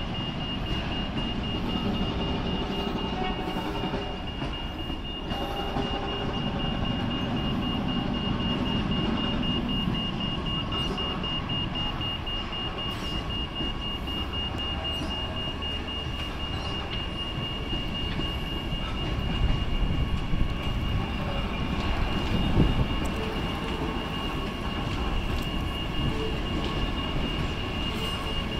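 Queensland Rail train running along the tracks: a steady low rumble of wheels on rail, with a continuous high-pitched tone over it.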